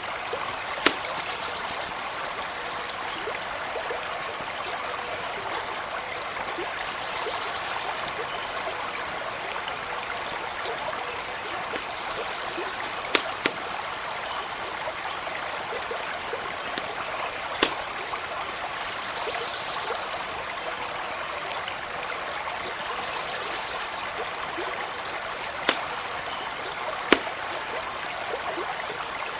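Stream running steadily over stones, with a handful of sharp, scattered pops from a crackling campfire.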